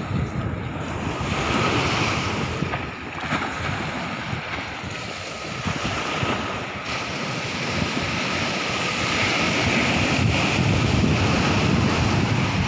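Sea water rushing and washing, a continuous noisy surge that swells louder about two seconds in and again in the last few seconds, with wind buffeting the microphone.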